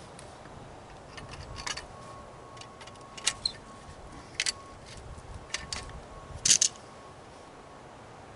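Hand tools and metal compressor parts clicking and clinking while the fittings are worked loose, in about five sharp, short knocks spread over several seconds, the loudest near the end.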